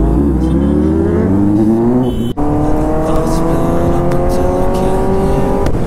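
Kawasaki ZX-10R's inline-four engine accelerating hard, its pitch climbing steadily. About two seconds in comes a brief break as it shifts up; the pitch drops and climbs again.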